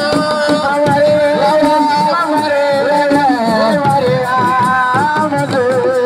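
Senegalese assiko music: a voice singing a wavering, sliding melody over steady hand-drum strokes.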